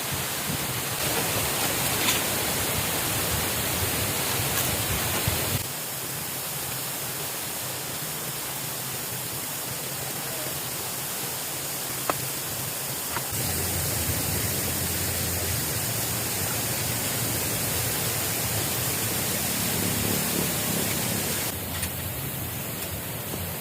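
Steady rushing noise of water, a dense hiss spread evenly across high and low pitches, stepping down in level abruptly about five seconds in and again near the end.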